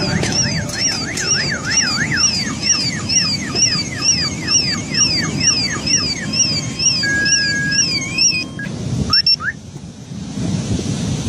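Electronic alarm siren wailing, sweeping up and down about twice a second over steady background noise. Shortly before the end of the siren it switches briefly to a steady tone. About nine seconds in it stops abruptly, leaving only the background noise.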